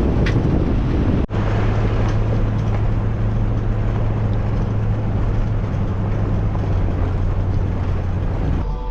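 A moving vehicle: wind and road noise at first, then after a sudden cut about a second in, a steady low engine drone.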